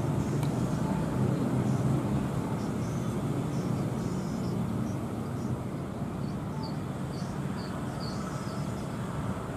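Aircraft engine rumble from a departing military transport, a steady low roar slowly easing as it moves away.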